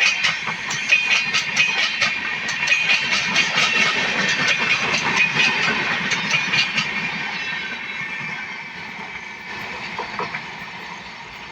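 A train's wheels clattering rapidly over the rail joints as it passes, the sound fading away through the second half as it moves off.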